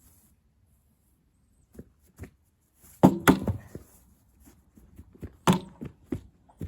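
Hard blows striking the steel shell of a water heater tank: a few light knocks, then two loud hits, the first about three seconds in and the second near the end, each with a brief metallic ringing, followed by smaller knocks. The tank only dents under the blows.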